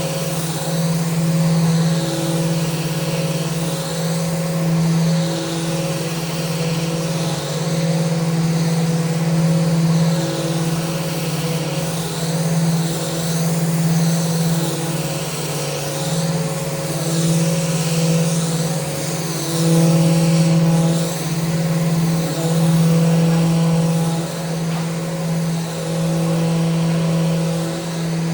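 Electric power sander running steadily against a mounted handrail, its motor humming at an even pitch while the hiss of the sanding rises and falls with each back-and-forth pass.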